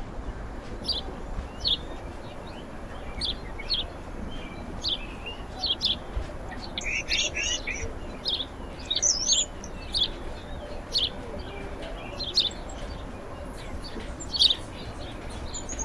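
Small songbirds chirping: short, high notes every second or so, with a burst of denser chattering notes about halfway through.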